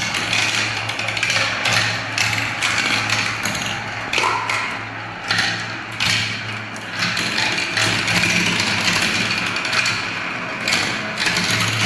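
Many marbles rolling and clattering down a spiral marble-run track: a continuous rattle of small clicks and knocks that swells and eases every second or two.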